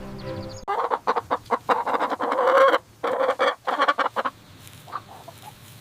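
Chicken clucking in a rapid run of short calls that begins just under a second in and thins out to a few fainter clucks after about four seconds. The clucking follows a held pitched sound that cuts off sharply.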